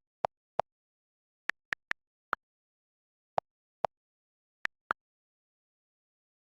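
Computer mouse clicking: about ten sharp, separate clicks, mostly in pairs a fraction of a second apart, with silence between.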